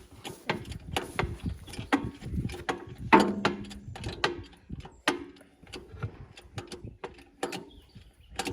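Metal clicking and clanking as lug bolts are fitted and turned on a tractor wheel, in irregular sharp clicks with one louder ringing clank about three seconds in.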